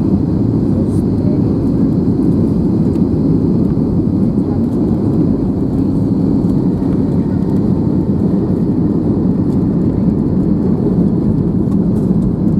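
Steady low rumble of an Airbus A321 heard from inside the cabin: engine and airflow noise, even throughout with no distinct events.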